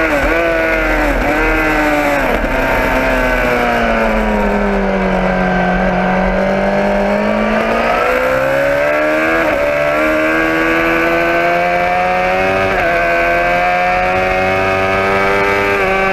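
Motorcycle engine heard from on board, with low wind rumble. The note dips in pitch several times in the first couple of seconds, sinks and then climbs steadily again, with gear changes about halfway and a few seconds later.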